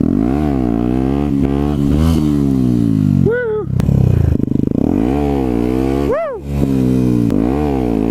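Yamaha WR125's 125cc single-cylinder four-stroke engine revving hard over and over, its pitch climbing and dropping as the throttle is opened and shut. Two short, sharp high-revving blips come about a third and three quarters of the way through.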